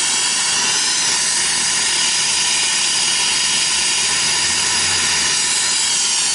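Brazing torch flame hissing steadily as it heats a refrigeration line joint for brazing.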